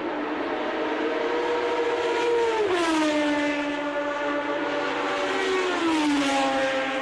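A 1989 Formula One car's naturally aspirated engine running at high revs with a shrill, pitched note. It climbs slightly, then drops in pitch twice, about a third of the way in and again near the end, as the engine comes off the revs.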